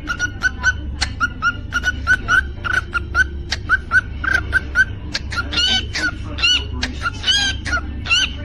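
Cockatiel chirping and whistling: quick short chirps, about three a second, with louder calls of several stacked pitches now and then, over a steady low hum.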